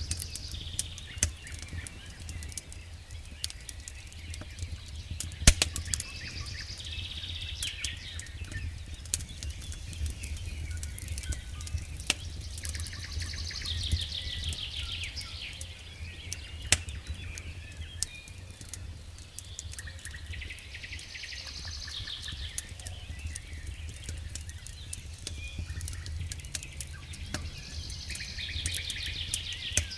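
Campfire crackling, with irregular sharp pops (one loud pop about five seconds in) over a low steady rumble of the burning wood. A songbird sings a short falling trill about every seven seconds, four times.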